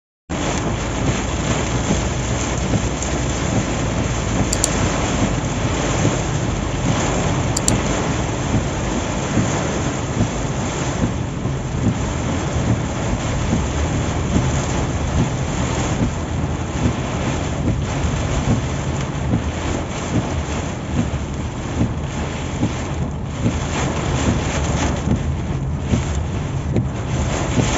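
Car travelling on a highway in heavy rain: a steady rush of rain, wind and road noise.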